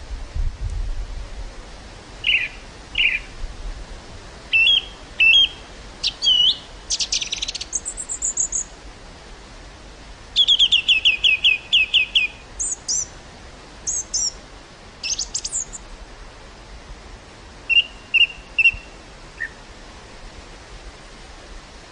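Small songbirds singing in short chirps and whistled phrases, with a fast trill of repeated falling notes about halfway through, over the steady soft hiss of wind across a meadow. A low rumble of wind is at the start.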